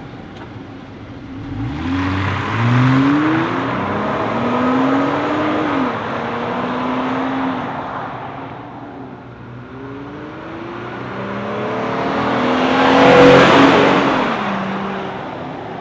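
2020 Jeep Gladiator's V6 running through a muffler-delete dual-exit axle-back exhaust, revved several times with the pitch rising and falling. It then swells to its loudest about thirteen seconds in and fades away.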